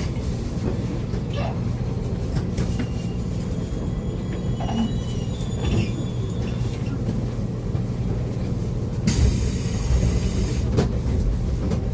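Running sound inside a JR Kyushu 811 series electric train's motor car: a steady rumble of wheels on the rails, with faint high tones a few seconds in and a burst of loud hissing lasting under two seconds about nine seconds in.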